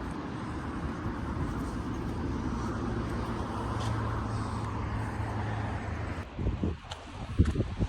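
Street traffic noise with a nearby vehicle running with a steady low hum. About six seconds in, this gives way abruptly to wind buffeting the microphone.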